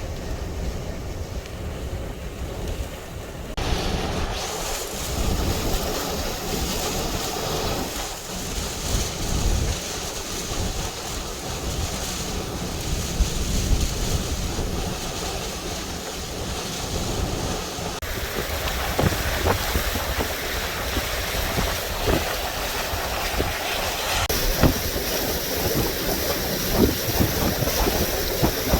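Hurricane-force wind gusting and buffeting the microphone: a steady rushing noise with deep rumbling that grows stronger about three and a half seconds in, with a few sharp knocks near the end.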